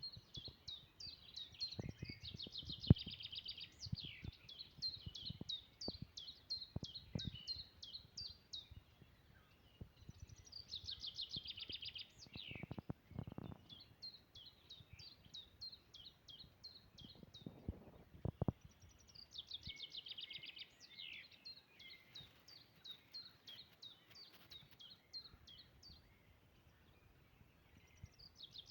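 Small songbird singing in three long bouts of rapid high chirps and buzzy trills, with short breaks between them. Soft low knocks and thumps sound underneath, mostly in the first half.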